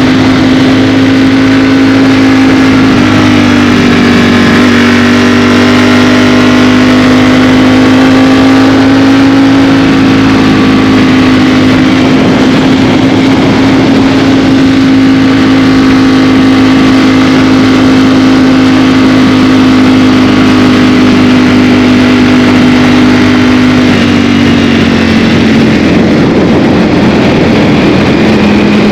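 Ducati Streetfighter V4S's 1103 cc V4 engine running at a steady pitch under way, with a few small dips in pitch.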